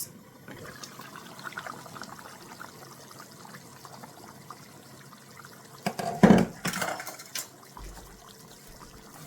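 Coconut milk being poured into a pot of curry chicken. About six seconds in come a few loud clatters against the pot.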